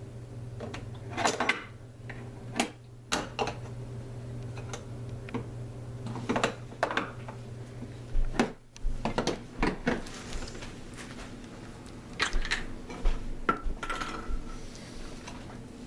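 Toy pots, pans and utensils clattering and clinking irregularly as a toddler plays with a toy kitchen.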